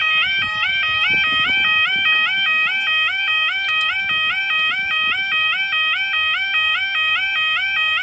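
UK level crossing audible warning alarm sounding its two-tone yodel, switching rapidly back and forth between two pitches about three times a second.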